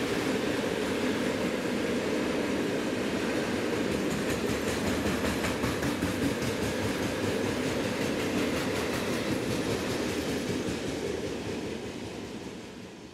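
Freight train of covered grain hopper wagons rolling past, a steady rumble with the wheels clacking on the rails, fading out near the end as the last wagons go by.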